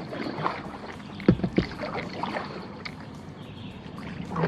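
Kayak paddling, the paddle splashing and dripping in the water, with two sharp knocks close together about a second and a half in.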